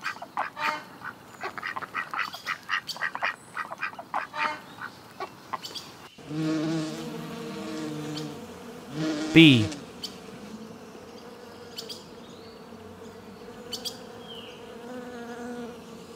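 A duck quacking in quick repeated calls for about six seconds, then a bee buzzing as a steady, pitched hum.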